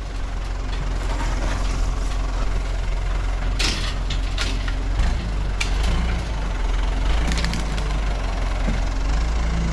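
Backhoe's diesel engine running steadily, with a few short clanks and rattles of equipment over it.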